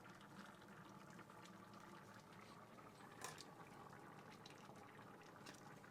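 Near silence: a faint steady hiss with one light click about three seconds in.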